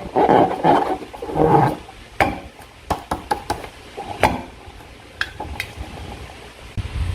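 Slime being handled and stirred during slime making: a few dense noisy bursts in the first two seconds, then scattered sharp clicks and taps.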